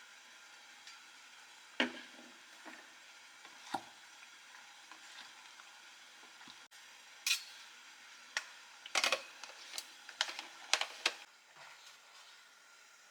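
A cooking utensil knocking and scraping against a pan over a faint steady sizzle. There are single knocks about 2, 4 and 7 seconds in, then a quick run of knocks a little after the middle.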